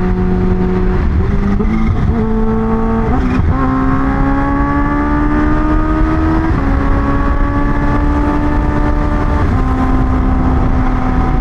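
Kawasaki Ninja H2 supercharged inline-four engine pulling under acceleration. Its pitch steps up over the first few seconds, then climbs steadily within each gear, with two upshifts dropping it, one past halfway and one near the end. Wind rush on the helmet or bike-mounted microphone lies underneath.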